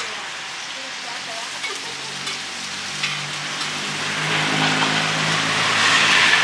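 Oil sizzling on a hot pan, the steady frying hiss of a street-food stall's cooking, growing louder toward the end. A low steady hum joins in about two and a half seconds in.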